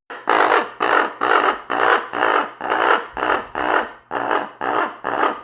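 A raven making a rapid series of rough, grumbly rasping calls, about two a second.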